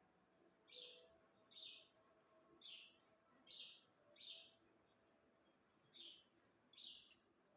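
Parrot giving short, sharp calls, about one a second, with a brief pause midway.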